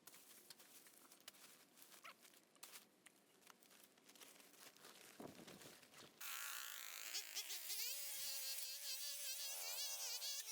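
Faint background with scattered light clicks, then about six seconds in a two-stroke brushcutter's high buzz cuts in abruptly, its pitch wavering up and down as the throttle changes.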